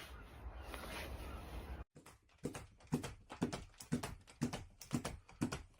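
A steady noisy hum that cuts off short about two seconds in, followed by crisp, regular clicks about twice a second: hand shears snipping as a tree is trimmed.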